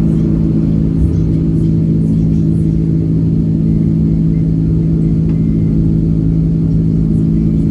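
Steady cabin drone of an Airbus A330-300 airliner in flight: a constant low hum from the jet engines with a few unchanging low tones over a rumble.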